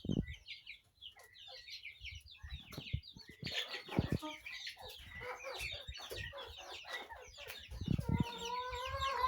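A flock of chickens clucking and chirping continuously, many short calls overlapping, with one drawn-out call near the end and a few dull knocks.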